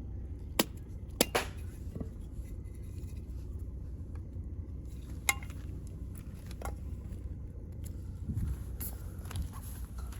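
A handful of sharp metallic clinks and knocks, spread out, from the thin steel parts of a compact round camping fire pit being handled, over a steady low rumble.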